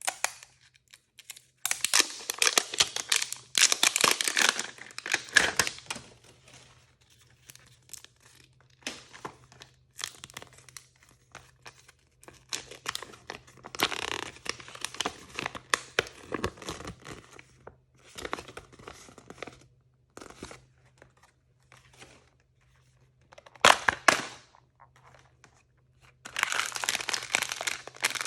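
Crinkly plastic toy packaging being torn open and crumpled by hand, in irregular bursts with short pauses between.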